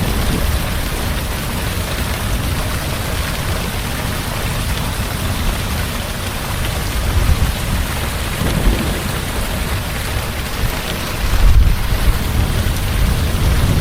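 Heavy rain pouring steadily, with a low rumble of thunder underneath that swells about three-quarters of the way through.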